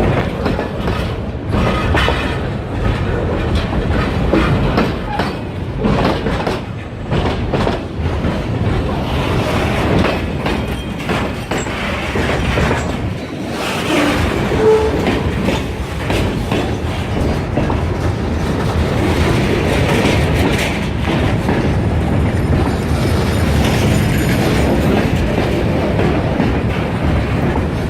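Kiamichi Railroad freight train rolling past, its wheels clacking steadily over the rail joints.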